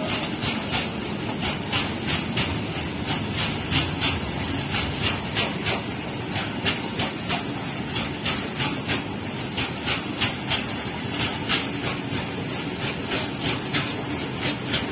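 Loaded BOXN HL open freight wagons rolling past: a steady rumble of wheels on rails, with a regular clicking of the wagon wheels, about three clicks a second.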